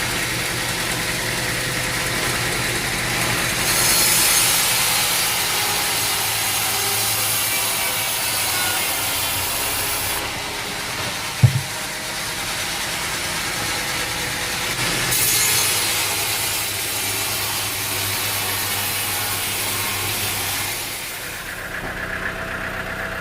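Engine-driven sawmill running, its saw cutting through a log in two long passes a few seconds apart, with a single sharp knock between them. Near the end the cutting stops and the engine runs on more quietly.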